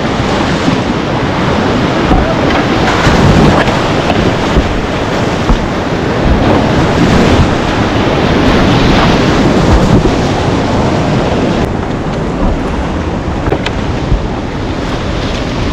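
Whitewater rapids rushing loudly, with splashing water and wind buffeting the microphone. It swells through the middle and eases somewhat near the end, where a few sharp ticks stand out.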